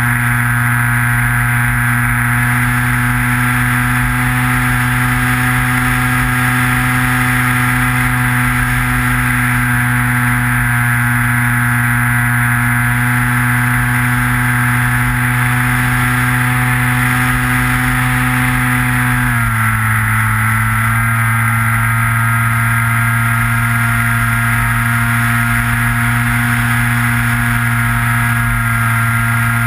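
Motor and propeller of a Skywalker FPV model plane running steadily, as heard from its onboard GoPro. The motor's pitch steps down about two-thirds of the way through and holds at the lower pitch.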